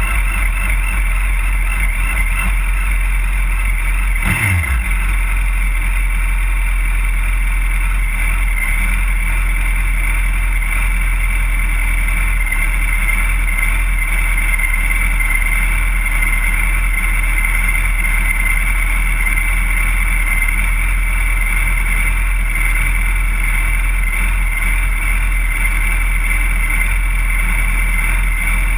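Inline-four sportbike engines idling steadily, a Suzuki GSX-R750 and a Yamaha R1 waiting close together. About four seconds in, a short throttle blip falls quickly back to idle.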